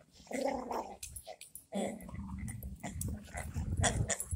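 Boxer dogs growling in rough play while tugging at a toy. The low growling builds and gets louder over the last couple of seconds.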